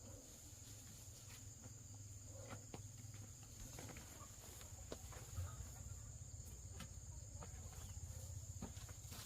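Faint outdoor ambience: a steady high insect drone, with scattered soft clicks and knocks.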